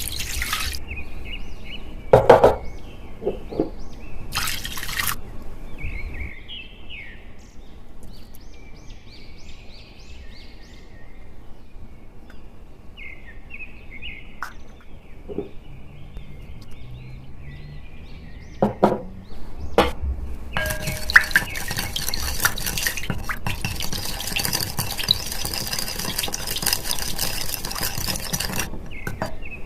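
Dishes clinking and knocking, then liquid pouring and splashing into a bowl for about eight seconds near the end, as the dough's water and milk go in.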